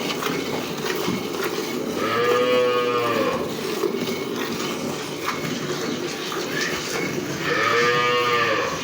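A cow mooing twice, about five seconds apart, each call about a second long and rising then falling in pitch, over a steady noisy background.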